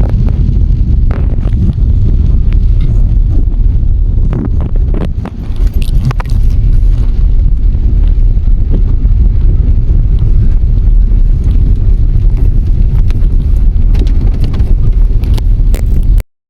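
Loud, continuous low rumble with scattered sharp clicks and knocks, cutting off suddenly near the end.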